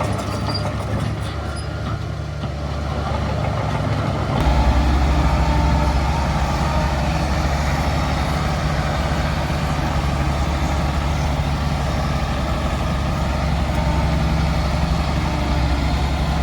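Heavy diesel engine of earthmoving machinery running steadily, with a deep low hum. It turns abruptly louder and heavier about four seconds in.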